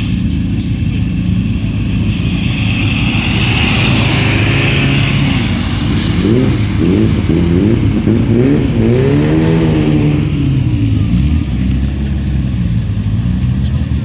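Racing car engines accelerating hard along a drag strip. The engine note climbs and drops back through several quick gear changes, then rises and falls once more as a car passes.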